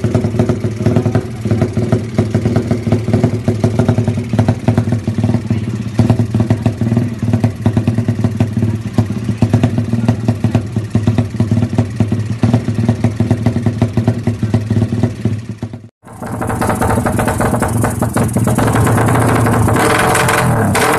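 Drag-bike motorcycle engine running through a JRM racing exhaust. For about sixteen seconds it runs steadily at idle with an even pulsing beat; then it cuts off abruptly, and a louder engine follows and is revved up near the end.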